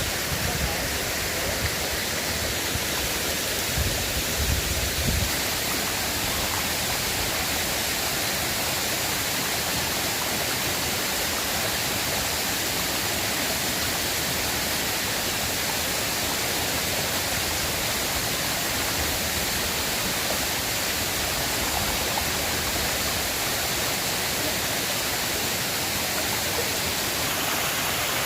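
River water rushing in a steady, unbroken stream. A few brief low bumps come about four to five seconds in.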